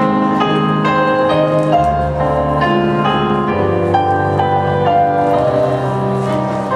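Gentle piano music: single notes struck over held low chords, at a steady, slow pace.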